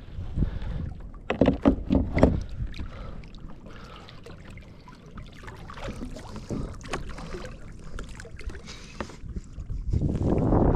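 Knocks and water sounds on a kayak: several sharp knocks on the hull in the first couple of seconds, then smaller clicks and splashing, and a louder rush of water noise near the end.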